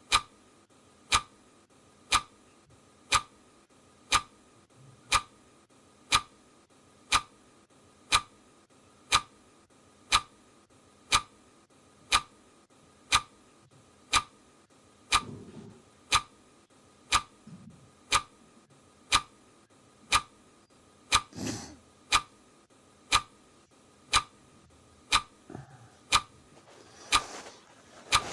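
Clock ticking steadily, about one sharp tick a second. A few short, noisy sounds fall between the ticks in the second half, the loudest about three-quarters of the way through.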